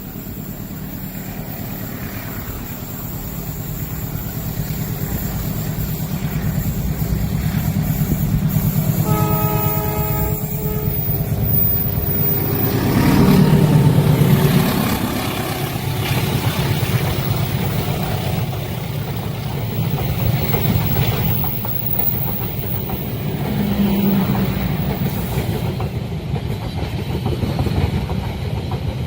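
Train approaching and passing. A low engine drone builds up, with a horn sounding once for about a second and a half some nine seconds in. The sound is loudest as the locomotive goes by around thirteen to fourteen seconds in, then the cars keep rolling past with a steady rumble.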